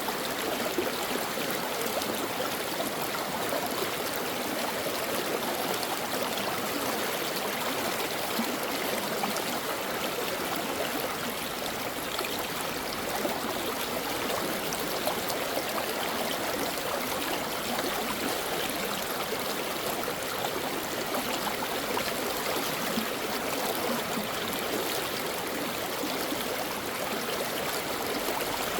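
A stream flowing over rocks, a steady rush of water with a constant babbling texture and no change in level.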